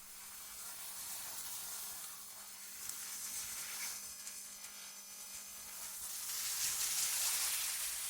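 AI-generated wind noise: a steady hiss that swells and eases, loudest about seven seconds in, over a faint steady low hum.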